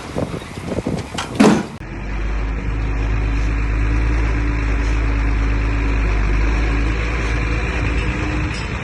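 A sharp knock about one and a half seconds in, then a heavy-equipment diesel engine running steadily with a low rumble.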